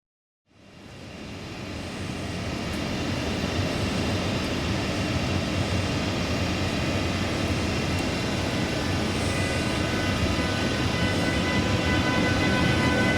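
An electric locomotive-hauled train approaching, its rumble building gradually. Near the end, a steady tone at several pitches rises out of the noise.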